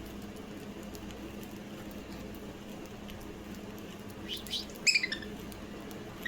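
Budgerigar giving a few short, sharp chirps about four to five seconds in, over a steady low background hum.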